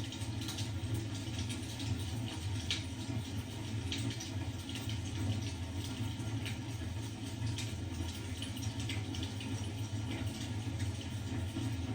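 Fireplace fire crackling: scattered small pops and snaps over a steady low rumble.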